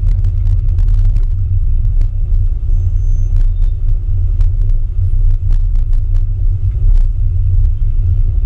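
Classic Mini's engine running at low speed in slow traffic, heard through the car-mounted camera as a loud, steady low rumble, with frequent small knocks and rattles from the mount.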